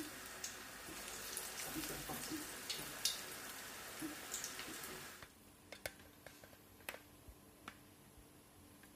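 Onion bhajis deep-frying in hot oil in a pan: a faint, steady sizzle with scattered small pops. It stops abruptly about five seconds in, leaving near silence with a few faint clicks.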